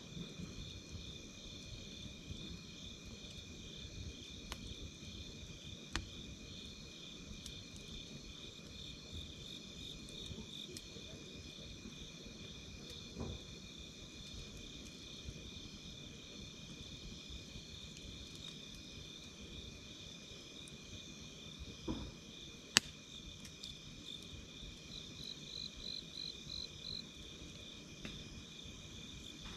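Night insects, crickets, chirping steadily in two pitches, with scattered crackles and pops from a wood campfire; the sharpest pop comes about three-quarters of the way through. A faster, higher pulsing chirp joins briefly near the end.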